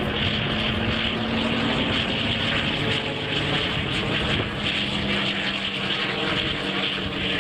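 Propeller aircraft engine running steadily, a constant drone.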